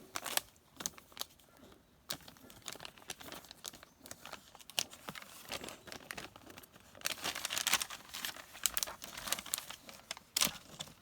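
Packaging crinkling and rustling as it is handled, with irregular crackles that get denser and louder in the last few seconds.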